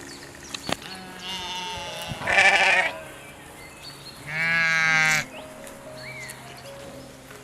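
Two loud wavering animal calls, each under a second long, about two seconds apart, over faint short chirps.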